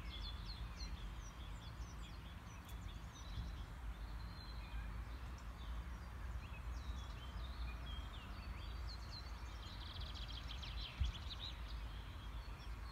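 Several birds chirping and singing, with a fast trill about ten seconds in, over a steady low rumble of wind on the microphone. A brief low bump near the end.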